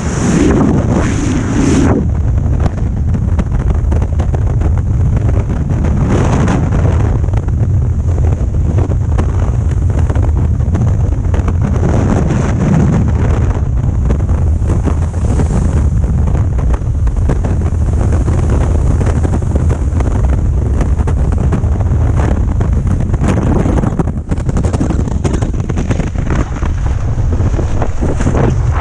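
Wind buffeting the camera microphone with a loud, steady rumbling rush that swells now and then.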